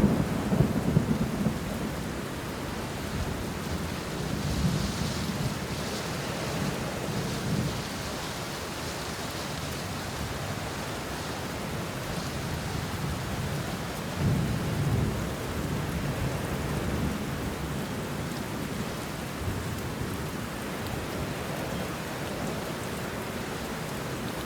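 Steady rain falling on banana leaves and bushes, with low rolls of thunder rumbling at the start, more faintly a few seconds later, and again a little past halfway through.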